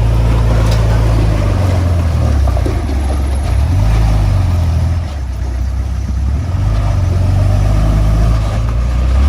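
Heavy diesel engine of earthmoving equipment running loud under load, its pitch stepping up and down several times as the throttle changes.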